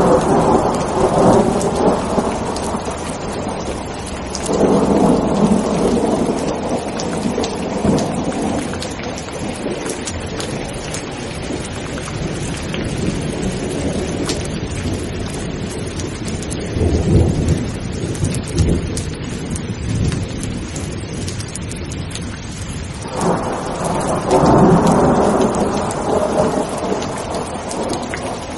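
Thunderstorm: steady heavy rain, with thunder rumbling up over it four times, the longest and loudest rolls near the start and near the end.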